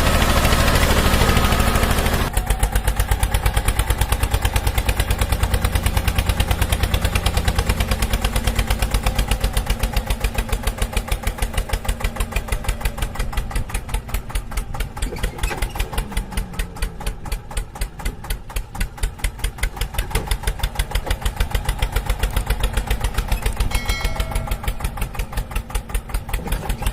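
Small engine running, fast and even for about the first two seconds, then dropping to a slower, regular chugging of roughly eight beats a second.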